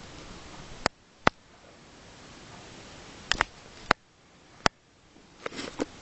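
A series of short, sharp clicks or knocks, about six or seven, spaced irregularly over a faint steady hiss.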